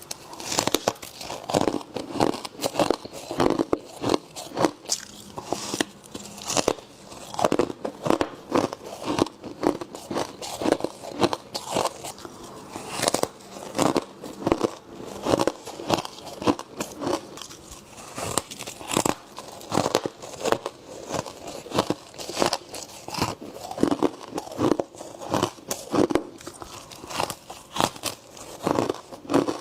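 Close-up biting and chewing of crunchy humidifier frost: a continuous run of crisp crunches, roughly one or two bites a second.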